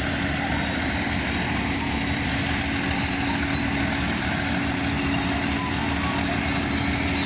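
Bulldozer's diesel engine running at a steady pitch.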